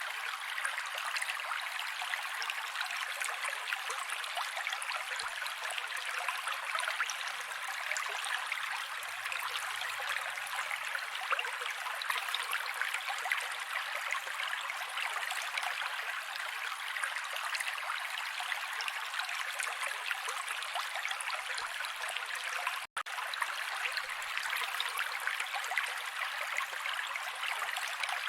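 Mountain creek running steadily over rocks, an even rushing and babbling of water with no low rumble. The sound cuts out for an instant about two-thirds of the way through, then resumes.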